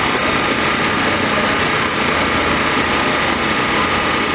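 A loud engine running steadily at an even speed, with no revving.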